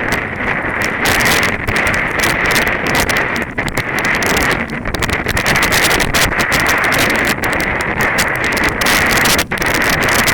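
Strong wind buffeting the microphone of a camera carried on a run, a loud continuous rushing with gusty dips, with the runner's footsteps under it.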